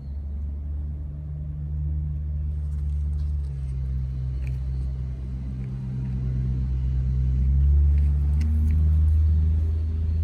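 Nissan S13 Silvia's SR20DE four-cylinder engine running through its exhaust at a low, steady speed, a deep rumble that swells somewhat louder about three-quarters of the way through.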